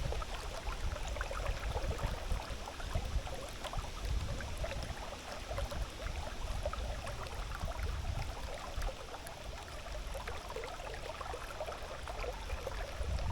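River water flowing steadily, with a low rumble underneath and scattered small crackles.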